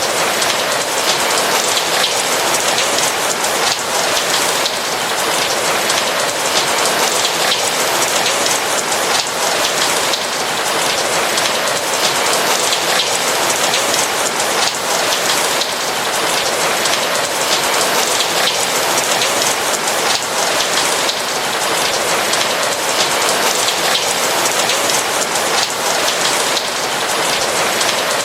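Steady rain, a dense even hiss of falling raindrops with fine individual drop ticks, unchanging throughout.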